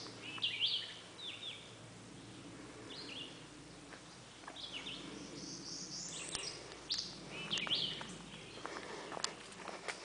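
Birds calling, short chirping notes repeated every second or so. Footsteps on a dirt trail come in during the last couple of seconds.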